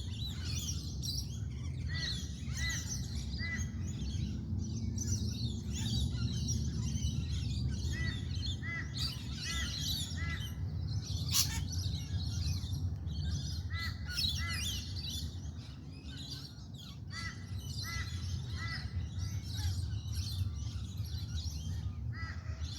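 Dawn chorus of many birds chirping and calling together, with one bird repeating a short series of about four notes several times. A steady low rumble runs underneath.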